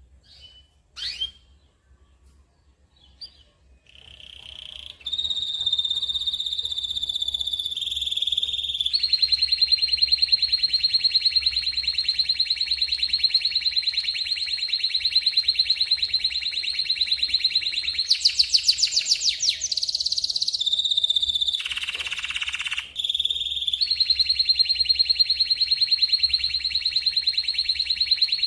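Canary singing a long, continuous song of rapid rolling trills. There is a higher, faster trill about two-thirds through and a brief falling sweep just after it. The first few seconds hold only a few short chirps before the song starts.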